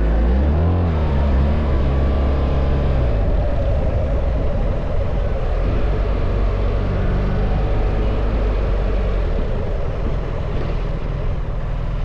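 BMW R1300 GS boxer-twin engine running under way, its note rising and falling through the first three seconds and then holding steadier. Constant wind and road noise runs under it.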